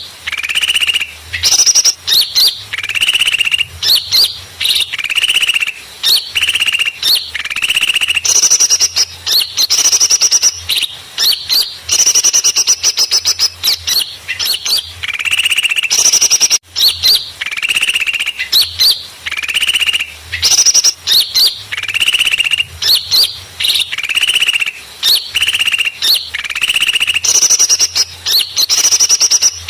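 Busy chorus of many small songbirds chirping and trilling rapidly, a recorded bird-trapping lure call meant to draw small birds in. It breaks off for a moment about halfway through.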